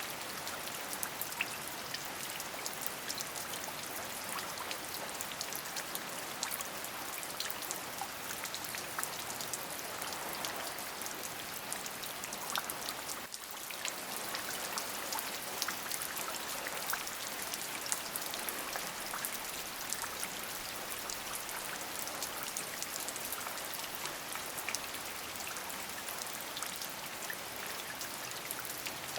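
Steady rain falling, with many separate drop hits ticking over an even hiss. The level dips briefly a little before the middle.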